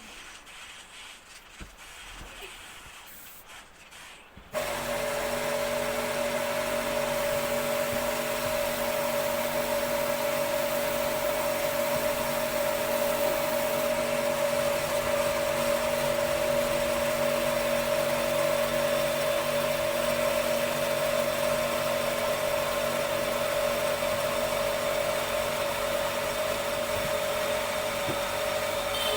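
An electric power tool switched on about four seconds in, its motor then running steadily at constant speed with a strong high whine over a lower hum. Before it starts there are only faint handling sounds.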